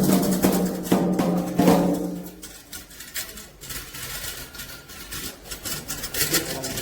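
Candomblé ceremonial percussion: repeated hand-drum and bell-like strikes. Held singing sounds over it and stops about two seconds in, leaving quieter, sparser strikes that pick up again near the end.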